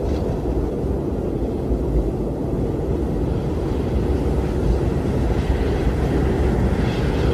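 Strong wind blowing: a steady low rumble, with a hissing gust that builds toward the end.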